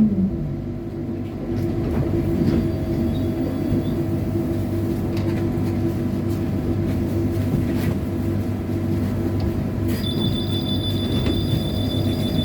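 Inside a running trolleybus: a steady low rumble and hum from the vehicle. About ten seconds in, a steady high-pitched electronic tone starts.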